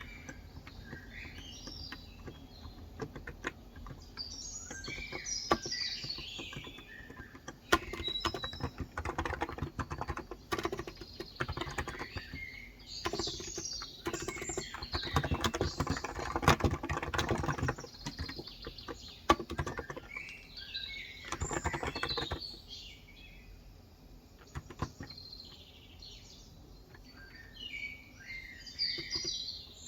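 Typing on a Cox Endeavor electro-capacitive (non-contact) tenkeyless keyboard with 35 g switches: bursts of rapid keystrokes with short pauses between them. Birds chirp throughout.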